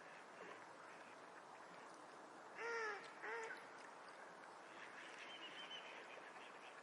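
Two short, faint bird-like calls about half a second apart, each rising slightly and then falling away, against near silence.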